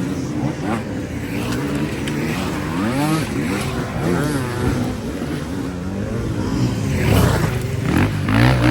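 Motocross dirt-bike engines revving, their pitch rising and falling again and again, with more than one bike overlapping; loudest near the end.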